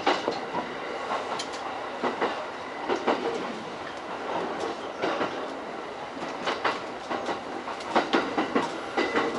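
E231 series electric train running along the line, heard from inside the leading car: steady running noise with wheels clacking irregularly over rail joints, the clacks coming thicker near the end.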